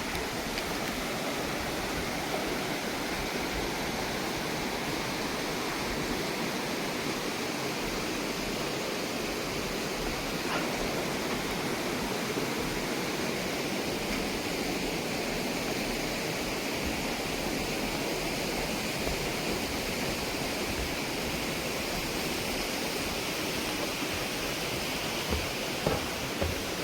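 Steady rush of a mountain stream tumbling over rocks, with a few short knocks near the end.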